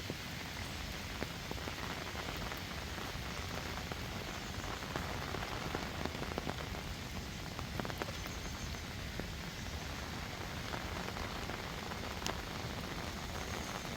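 Heavy rain falling steadily, a constant hiss with scattered sharp ticks of individual drops landing close by.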